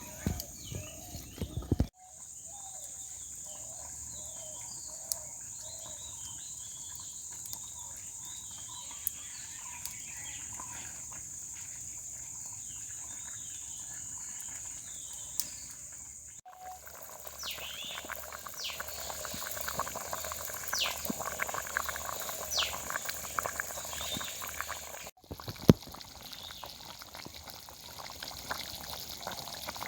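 Rural outdoor ambience: a steady high-pitched hiss with scattered bird chirps, broken by abrupt cuts. In the middle stretch it turns to a denser crackling with sharp clicks.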